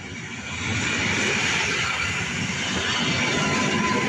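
EN57AL electric multiple unit passing close by at speed. Its wheel and running noise swells as the train reaches the listener about half a second in, then holds steady and loud.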